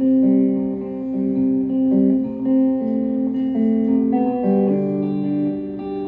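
Acoustic guitar played alone, moving through a series of chords, with the notes changing every half second or so.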